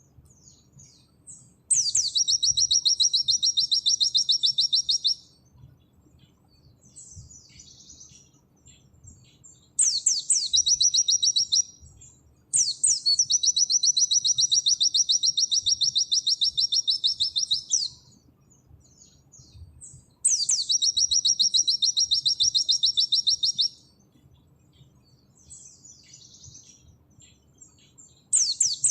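White-eye (pleci) singing its rapid 'nembak' song: long, fast, high trills lasting several seconds each, each opening with a quick downward sweep, heard five times with soft chirps in between.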